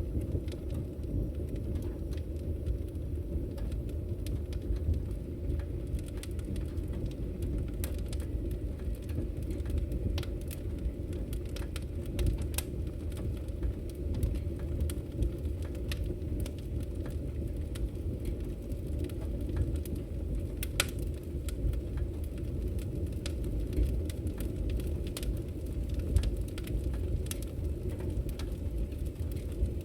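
Firewood burning in a fireplace: frequent sharp crackles and pops over a steady low rumble of the fire.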